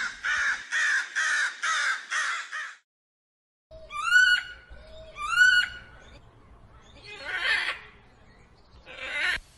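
Recorded bird calls: a crow gives a quick run of about six harsh caws. After a second's pause come two rising, hooked calls about a second apart, then fainter rasping calls.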